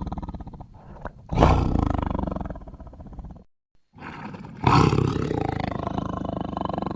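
Big-cat roaring presented as the voice of a saber-toothed cat: a rumbling, pulsing growl, then a loud roar about a second and a half in that fades off, a brief dead-silent break, and a second loud roar a little before five seconds in.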